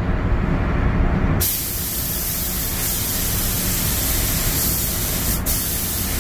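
Compressed-air paint spray gun hissing steadily while spraying a car body. It is duller for about the first second and a half, then a full, bright hiss, with one short click near the end.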